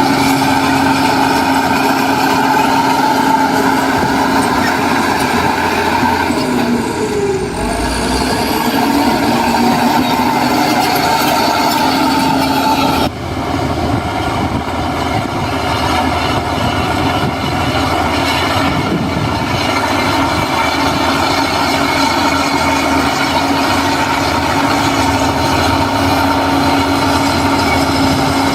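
Heavy diesel construction machinery running steadily, with a brief shift in engine pitch about seven seconds in and an abrupt change in the sound about halfway through.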